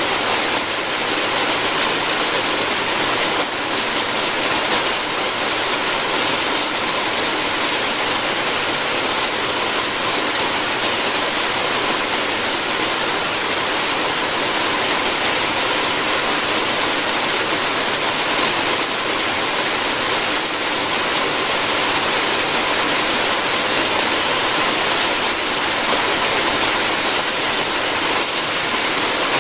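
Steady heavy rain falling on a roof: a dense, even hiss of drops.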